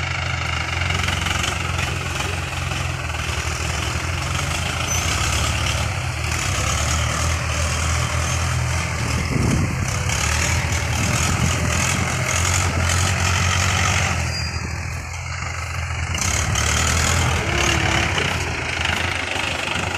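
Tractor's diesel engine running steadily, a constant low hum.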